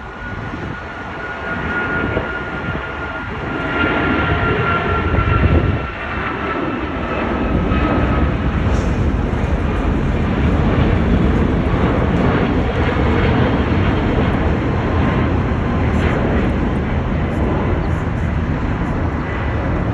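Jet airliner passing close by: engine noise builds over the first few seconds, then stays loud and steady. A high whine in it slowly drops in pitch.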